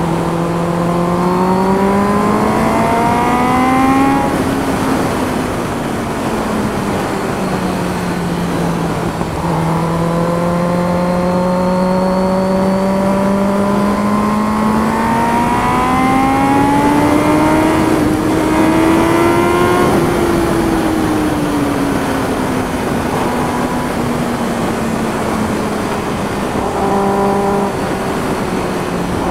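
Kawasaki ZX-10R's inline-four engine running with the bike under way. Its note rises as the bike accelerates over the first four seconds and drops back. It then climbs slowly for about ten seconds and eases off again.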